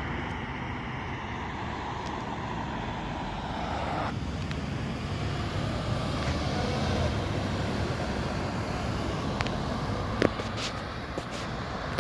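Motor vehicle traffic running steadily, a low rumble that swells for a few seconds midway. A sharp click comes about ten seconds in.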